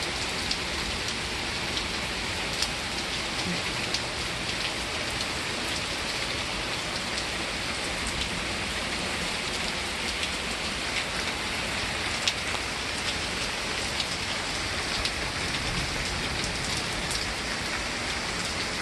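Steady rain falling, an even hiss of rain on surfaces, with scattered sharper ticks of individual drops striking close by.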